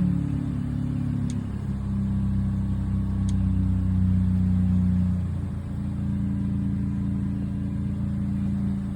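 Audi A4 B9.5's turbocharged four-cylinder engine idling steadily just after an oil change, its pitch settling slightly lower a couple of times. Running good with no leaks.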